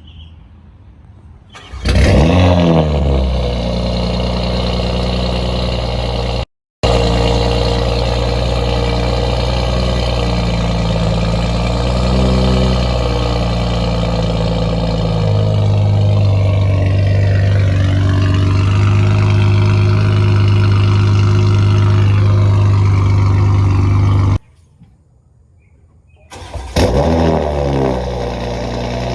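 2020 Toyota Supra cold-starting through a straight-piped Magnaflow xMod cat-back exhaust (muffler deleted) and a catless downpipe. The engine catches with a loud flare about two seconds in, then runs at a steady fast cold idle whose tone deepens about halfway through. It stops, and a second cold start flares near the end.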